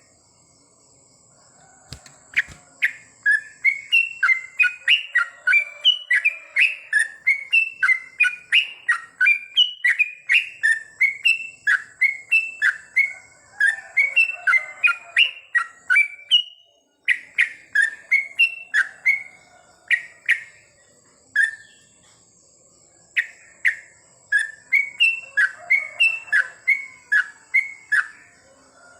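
Yellow-vented bulbul singing rapid runs of short, sharp chirping notes, several a second, broken by a few brief pauses. A thin, steady high whine runs underneath.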